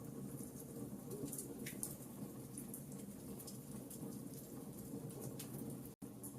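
Wood fire burning, logs crackling with irregular sharp pops and snaps over a steady low rush. The sound cuts out for an instant just before the end.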